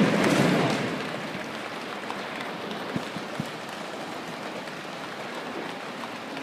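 A crowd making a rainstorm with body percussion, an even rain-like patter. It fades in the first second from a loud peak, the height of the storm, into a steadier, quieter patter, with a couple of sharp clicks about three seconds in.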